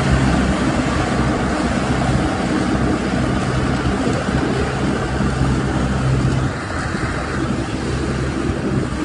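Medium-size Thalae Thong rice combine harvester running steadily, its engine drone mixed with machinery noise. It drops slightly in level about six and a half seconds in.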